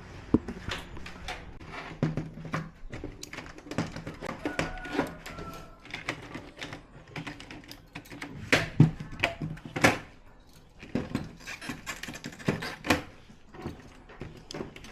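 Irregular clicks, taps and clatter of hard plastic and metal TV parts being handled and unclipped during disassembly.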